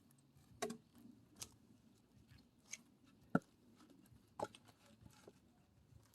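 A few short, sharp knocks and clicks of firewood and an axe being handled during wood splitting, scattered over a few seconds, with one louder crack about three and a half seconds in.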